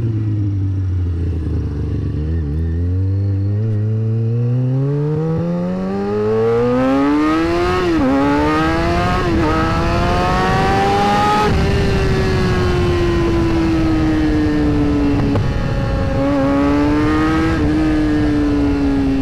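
Sport bike engine pulling hard through the gears, its pitch climbing steadily with two quick drops at the upshifts. It then eases off and winds slowly down, with wind noise underneath.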